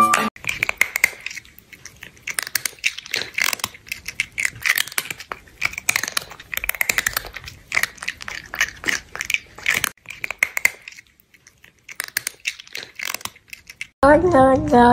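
Close-up crunchy chewing: rapid, irregular crunches and wet clicks of eating, with a couple of short pauses. About fourteen seconds in, it cuts to a loud, wavering meow.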